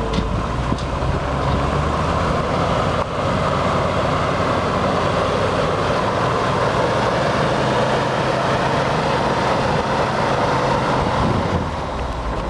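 1971 Chevrolet C-60 grain truck's engine running steadily under a broad rushing noise.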